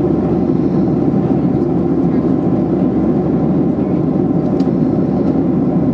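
Steady in-flight cabin drone of a Boeing 737-800: the rush of its CFM56 jet engines and airflow, heard from a window seat, with a low, even hum and no change in pitch.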